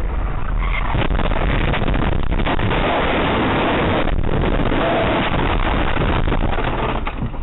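Fireworks going off right around a car: a fast, dense string of bangs and crackling bursts that starts about a second in and lasts several seconds, heard from inside the cabin.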